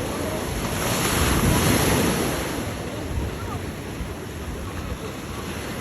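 Ocean surf washing onto the beach, with one wave breaking louder about a second in and then easing. Wind buffets the microphone.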